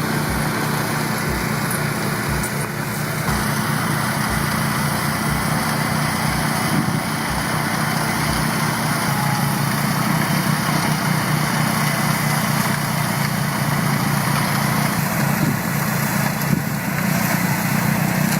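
Compact tractor engine running steadily under load while driving a front-mounted snowblower, a continuous mechanical drone.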